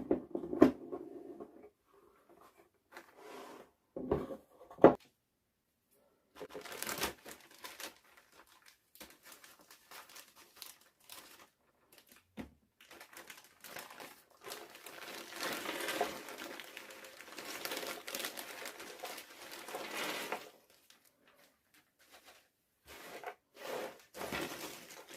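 Crinkling and rustling as a jigsaw puzzle and its packaging are handled, coming in irregular spells with short pauses. The longest and loudest spell is about two-thirds of the way through.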